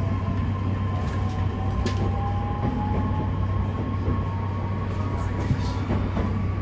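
E131 series electric train running, heard from inside the car: a steady low rumble with a faint motor whine that rises slightly in pitch, and a few light knocks.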